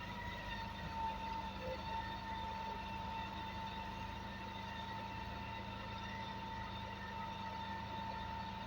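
Heavy diesel machinery running steadily, with a constant high whine over the low engine sound.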